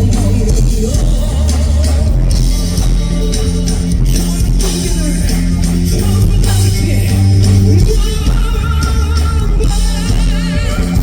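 Live rock band playing loudly, with electric guitar, bass and drum kit, and a singer's voice over them.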